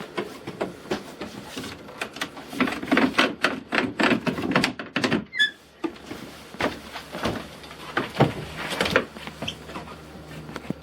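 Irregular knocks and thumps inside a wooden boat, with one short, rising high squeak about halfway through.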